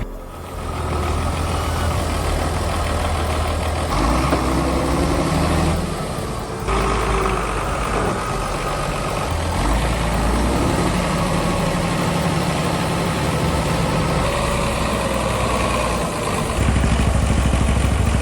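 Tractor engines running and labouring across a run of short clips, the sound changing abruptly every few seconds at the cuts.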